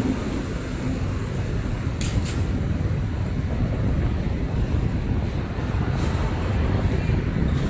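Outdoor ambience: a steady low rumble with a couple of faint clicks about two seconds in.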